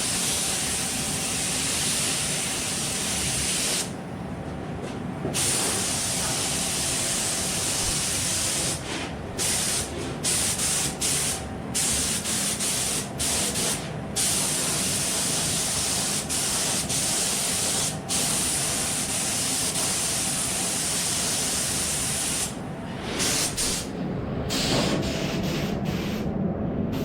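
Compressed-air paint spray gun hissing as basecoat is sprayed, in long passes with the trigger let off briefly about ten times.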